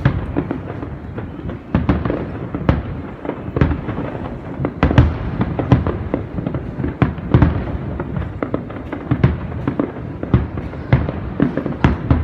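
Fireworks display: aerial shells bursting one after another in a dense, irregular string of sharp bangs, several a second, over a continuous background of more distant bursts.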